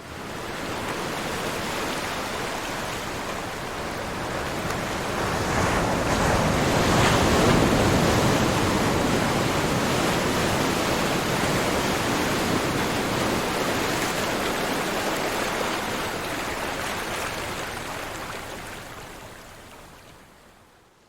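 Ocean waves washing on a shore, a steady rushing surf that builds to its loudest about seven seconds in and slowly dies away near the end.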